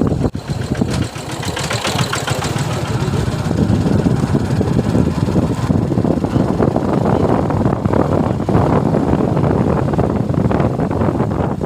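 Suzuki Gixxer motorcycle's single-cylinder engine running steadily while riding, with a brief drop in level just after the start.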